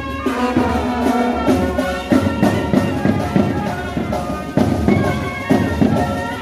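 Wedding band music: drums beating steadily under a held melody on wind instruments.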